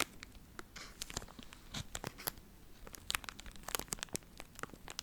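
Crinkly material being handled close to the microphone, tearing and crumpling in an irregular string of sharp crackles and clicks.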